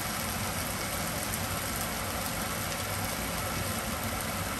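Diced potatoes and bell peppers frying in oil in a pan on a gas burner: a steady, even sizzle, with a low hum underneath.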